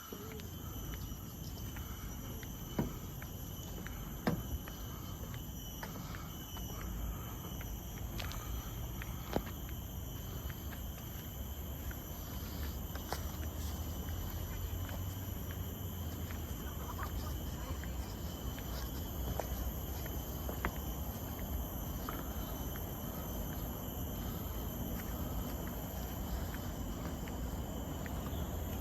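Steady high-pitched drone of forest insects, with a low rumble beneath and a few scattered sharp clicks and knocks.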